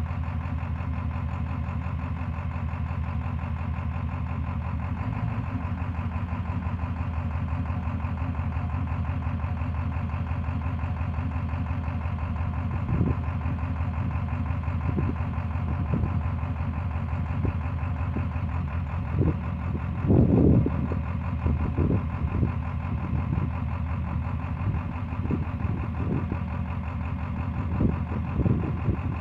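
Ford 7.3 Power Stroke V8 turbo-diesel idling steadily, an engine with a misfire. From about halfway on, irregular short thumps break in, the loudest cluster about two-thirds of the way through.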